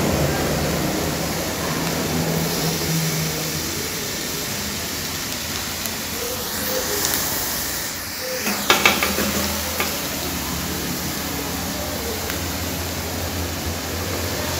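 Food sizzling steadily in a frying pan, with a brief run of sharp clicks a little past halfway.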